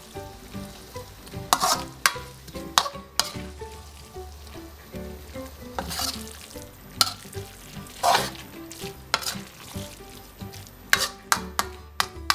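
Spatula scraping and clanking against a metal wok as glass noodles are stir-fried, with a steady sizzle underneath. The strokes come irregularly, about one or two a second.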